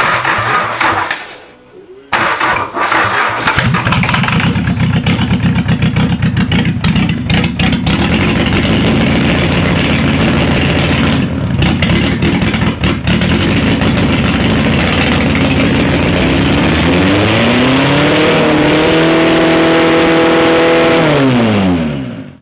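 Mazda 1.7-litre diesel engine cold-started on starting spray: the starter cranks, the engine catches about two seconds in and runs unevenly, then revs up and holds high before the revs fall and it stops suddenly. The owner says the engine is worn out and blows oil by.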